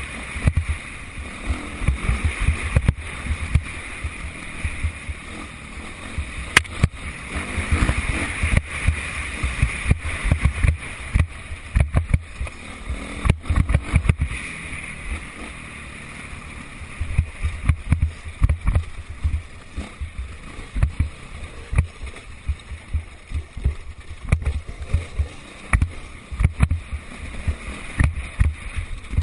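Wind buffeting the microphone in irregular low rumbling gusts, over the sound of motocross bikes' engines running around the track, which swells and fades.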